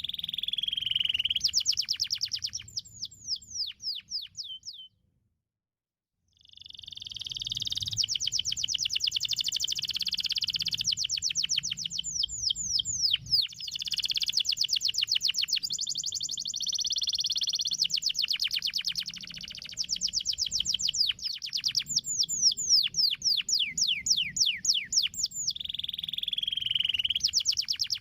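Domestic canary singing long, rapid trills: fast runs of repeated chirping notes, some sliding down in pitch. The song cuts to dead silence for about a second and a half around five seconds in, then starts again.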